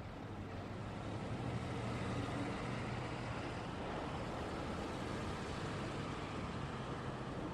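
Road traffic: motor vehicles driving past with tyre and engine noise and a low engine hum, growing louder over the first couple of seconds and then holding steady.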